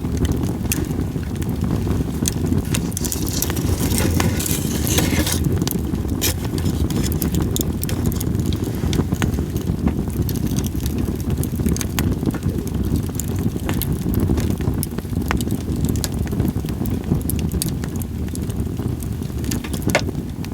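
Split sawtooth oak (kunugi) firewood burning in a campfire, crackling with frequent sharp pops, with a brief hiss about three to five seconds in. A steady low rumble of wind on the microphone runs beneath it.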